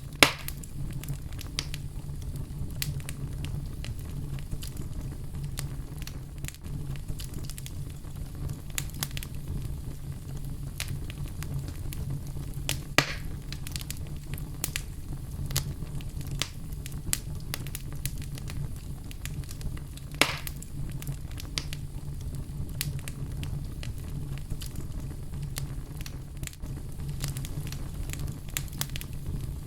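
Wood fire in a fireplace crackling: a steady low rumble of burning with frequent sharp snaps and pops, three of them louder, just after the start, about 13 seconds in and about 20 seconds in.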